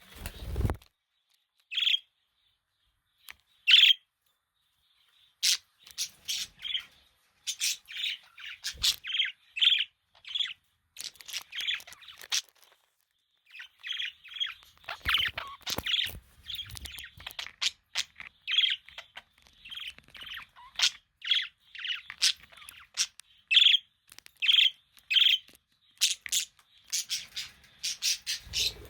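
Budgerigars chirping: a couple of single chirps, then from about five seconds in a dense run of short chirps and chatter. A brief low thump at the very start.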